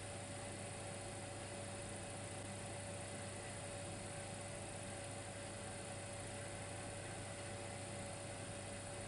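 Dimplex electric fireplace running: a steady electrical hum with one faint constant tone over an even hiss.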